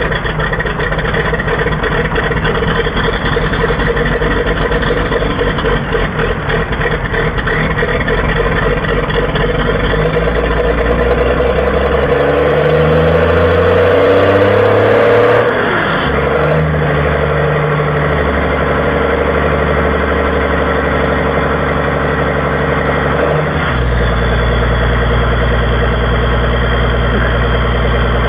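Diesel engine running just after a cold start. It is uneven at first, then revs up for several seconds and drops off suddenly about halfway through. It then runs steadily and settles to a lower, even idle near the end.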